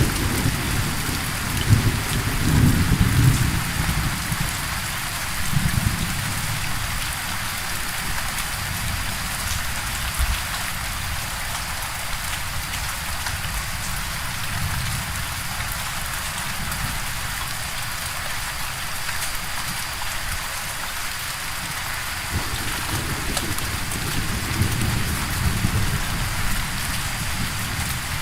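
Steady downpour of rain, with low rolling thunder rumbling in the first few seconds and again near the end.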